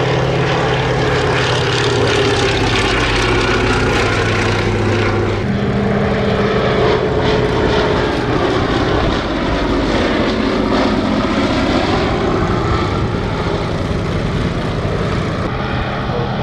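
Fairey Swordfish biplane's Bristol Pegasus nine-cylinder radial engine running at display power as it flies past. The loud, steady engine note shifts in pitch about five seconds in and again later.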